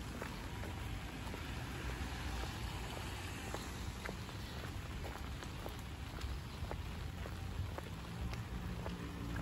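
Light rain falling: a steady hiss of rain with many scattered, irregular drop ticks.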